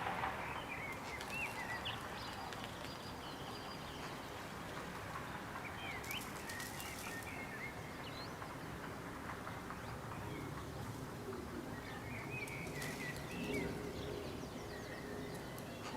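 Birds chirping in three short bursts of quick little calls over a steady outdoor background hiss.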